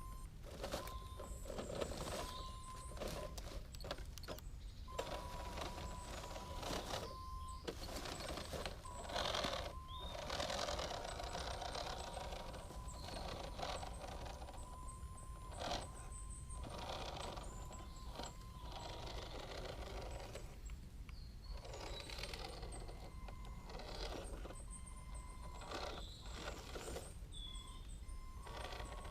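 Vintage Tamiya Hilux RC truck driving: a steady whine from its small electric motor and gearbox, with bursts of rougher noise from the tyres and a few short bird chirps near the end.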